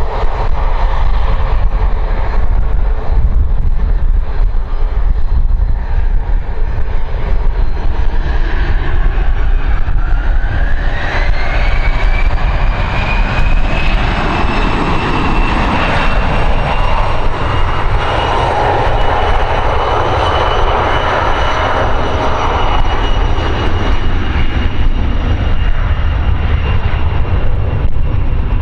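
Jet aircraft engines spooling up: a turbine whine rises in pitch about ten seconds in and then holds steady and high over a loud engine roar and low rumble.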